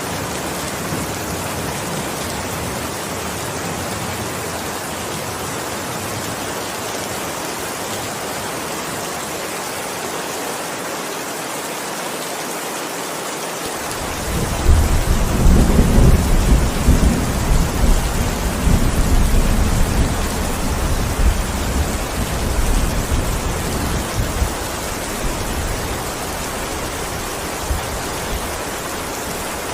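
Steady rain falling, with a long roll of thunder rumbling in about halfway through and dying away over some ten seconds.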